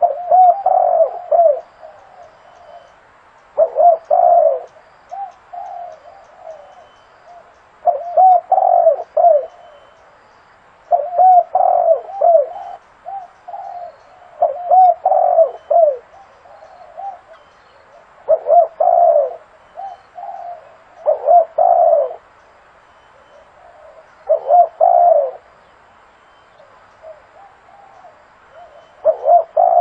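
Spotted dove cooing: a phrase of several coos, repeated about every three to four seconds.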